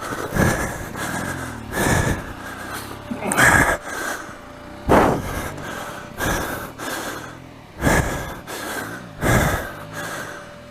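A dirt-bike rider breathing heavily close to the helmet microphone, with a loud breath about every second and a half.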